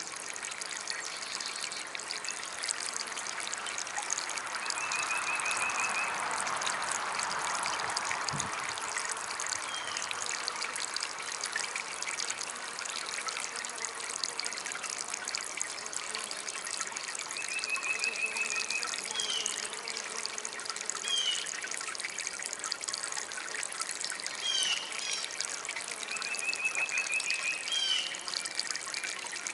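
Small garden water fountain trickling steadily, with short bird chirps and trills now and then.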